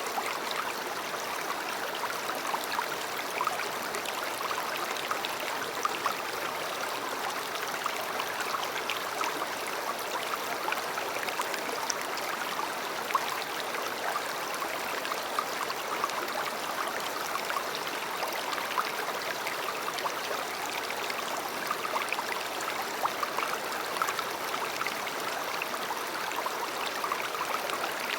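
A river flowing steadily, its rushing water flecked with many small splashes and trickles.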